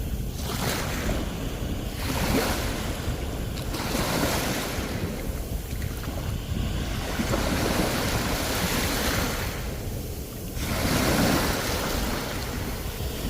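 Sea waves breaking on a beach, one surge after another swelling and washing back every few seconds.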